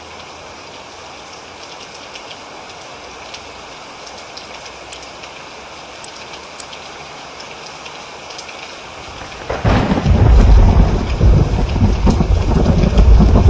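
Steady rain falling, with a few sharp drips, then thunder breaks out loudly about two-thirds of the way through and rumbles on to the end.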